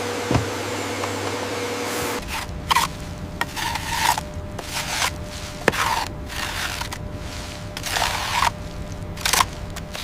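A steady machine hum for about two seconds, then a brush scrubbing a surface in irregular strokes, roughly one a second.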